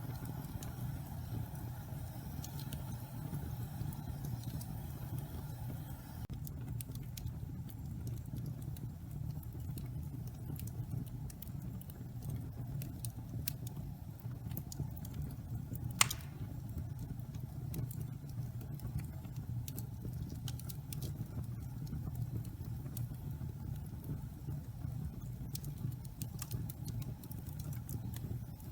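Wood fire burning in a fireplace, damp pine logs crackling: a steady low rumble under scattered small crackles, with one loud sharp pop about halfway through.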